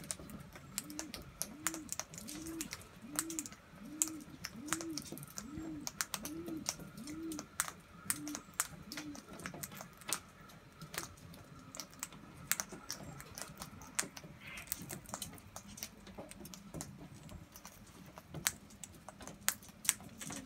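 A dove cooing about ten times in a row, each coo rising and falling, under a second apart, stopping about nine seconds in. Through it run scattered sharp clicks of birds' beaks pecking and cracking seed.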